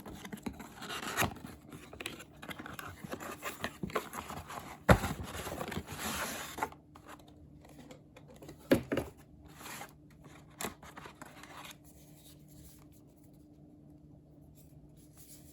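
Cardboard box and its packaging being handled and opened: rustling, scraping and tearing with a few sharp clicks and knocks, the loudest about five seconds in. After about seven seconds it drops to faint handling noise.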